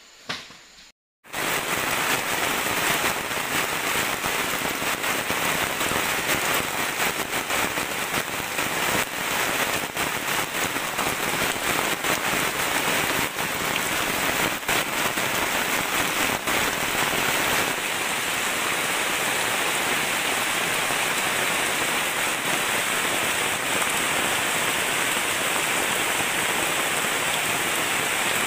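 Heavy rain pouring down steadily, a dense even hiss that cuts in about a second in, after a short knock and a brief gap.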